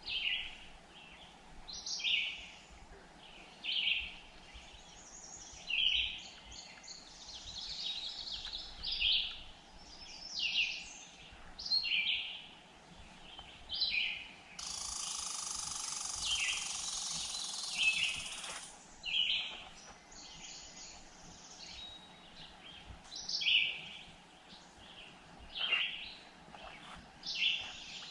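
A bird calling over and over, one short high call about every two seconds. A steady hiss cuts in for about four seconds midway and stops abruptly.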